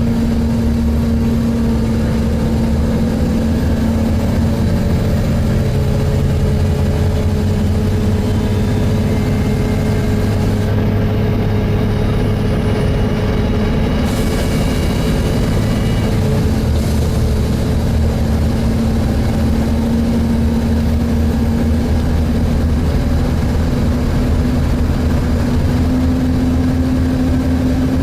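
Volvo B7TL double-decker bus running, heard from inside the saloon, with its engine cooling fan making a loud steady hoovering drone that rises a little in pitch near the end.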